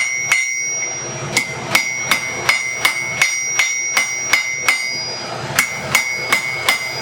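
Blacksmith's hand hammer striking hot steel on an anvil, drawing the bar out with a straight-peen hammer. The blows are even, about three a second, each with a bright metallic ring, with two brief pauses.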